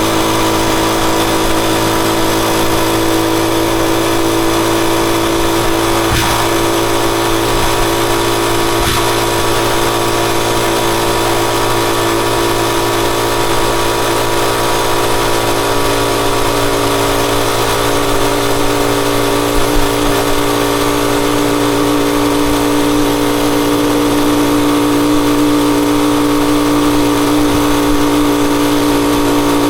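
Rusi Chariot 175 motorcycle engine running at a steady speed, its pitch dropping slightly near the end.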